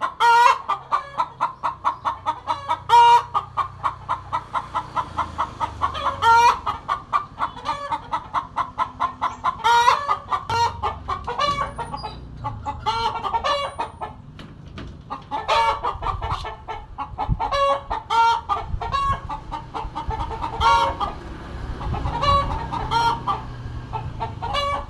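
Chickens clucking, a long run of short calls repeated several times a second, with a few louder calls.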